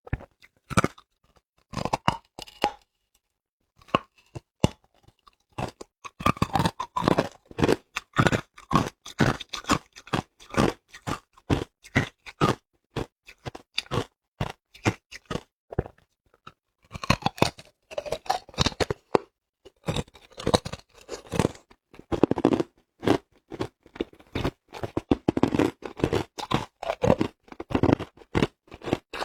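A person biting and chewing hard ice close to the microphone: runs of sharp, loud crunches, broken by a couple of brief pauses, one about three seconds in and another about halfway through.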